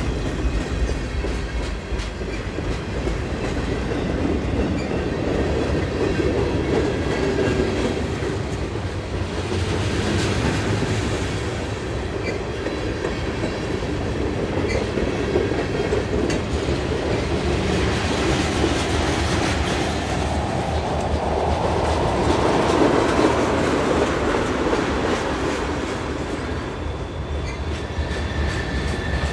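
Union Pacific manifest freight train's cars rolling past, a steady rumble of steel wheels on rail with clickety-clack, swelling and easing in waves.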